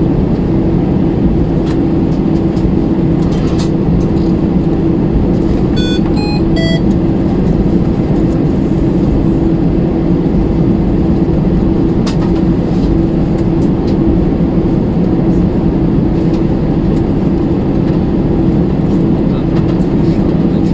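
Airbus A320 cabin noise: a steady drone of the engines and cabin air with a constant low hum, before takeoff. A short three-note chime sounds about six seconds in.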